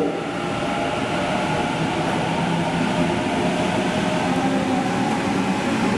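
A train giving off a steady hum with several held tones, with no sudden events.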